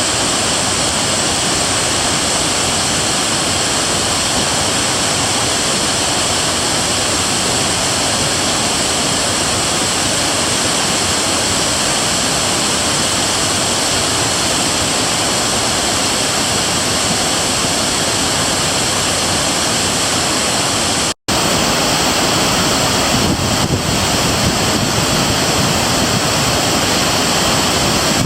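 Waterfall pouring: a loud, steady rush of falling water. About 21 seconds in it cuts out for an instant and resumes with a slightly different tone, with some wind buffeting the microphone near the end.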